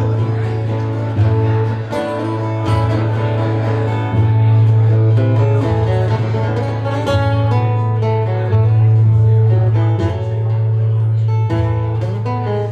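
Live acoustic guitar strumming chords over a sustained low bass note, in an instrumental passage of a song, the chords changing every second or two.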